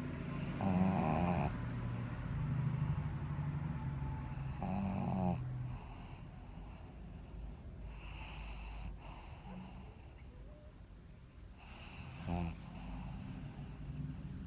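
Pug snoring in its sleep, a rasping snore with each breath every few seconds, louder during the first five seconds.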